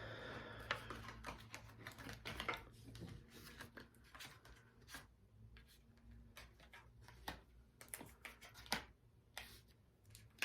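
Tarot cards being handled and laid down: faint, irregular clicks and flicks of card stock.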